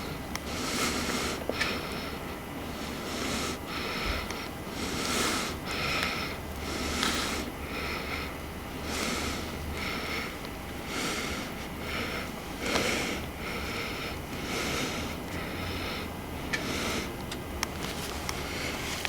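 A person breathing close to the microphone, short breaths about once a second over a faint low hum.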